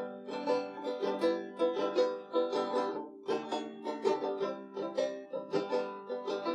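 Instrumental break of a country-style song: a plucked string instrument picks quick runs of bright notes, with no singing.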